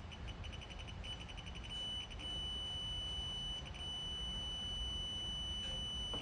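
Digital torque wrench adapter beeping, its high beeps coming faster and faster as the bolt nears the set torque, then sounding as one steady tone about two seconds in, signalling that the target torque has been reached.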